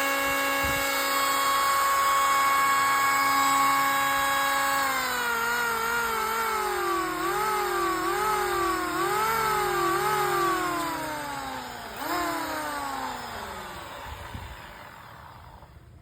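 Stanley 750 W electric planer motor whining at a steady high speed, running free. Then it is let go and its pitch falls, jumping back up in several brief spurts as the trigger is blipped, before it winds down and stops near the end.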